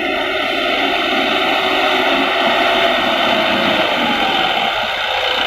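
Diesel engine of a tractor or loading machine running steadily, a continuous rushing mechanical noise.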